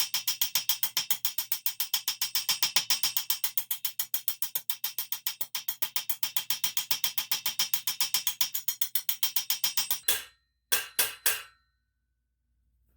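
Hammer striking a metal armour lame in a fast, even rhythm of about six or seven blows a second, closing up a stretched articulation hole. The blows stop about ten seconds in, then three last strikes follow.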